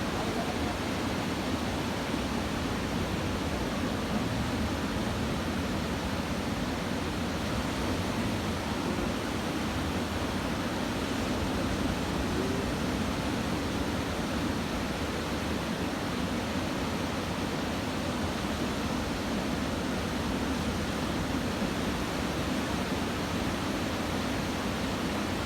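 Surf from a typhoon swell breaking on a beach: a steady, unbroken wash of noise with no single wave crash standing out.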